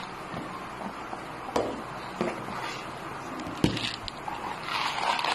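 Plastic vitamin bottles being set down on a glass tabletop: a few separate light knocks, with soft rustling of packaging between them.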